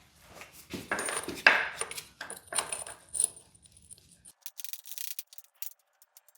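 Small metal tools and parts being handled and set down: a run of clinks, knocks and scrapes over the first three seconds or so, then only faint light ticks.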